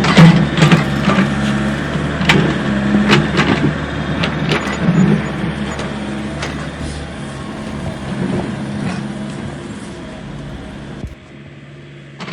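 Truck engine running steadily with repeated clanks and knocks over it. The sound slowly grows quieter and cuts off sharply about eleven seconds in.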